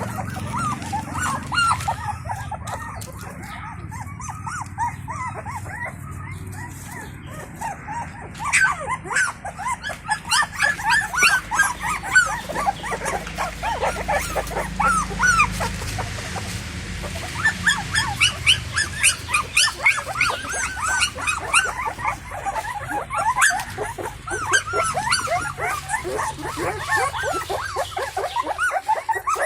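Several young puppies whimpering and squealing, many short high-pitched cries overlapping, getting busier about a third of the way in, over a low steady hum.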